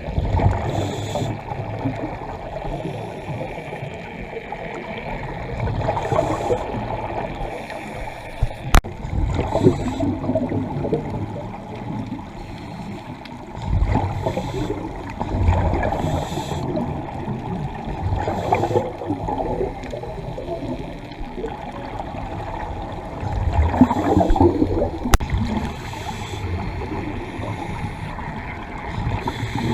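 Underwater bubbling and gurgling from scuba divers' regulators, surging every four to five seconds as exhaled air bubbles out, with a couple of sharp clicks.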